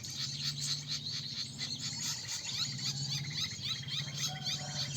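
A dense chorus of small songbirds chirping and twittering: many rapid, short, high chirps overlapping, over a steady low hum.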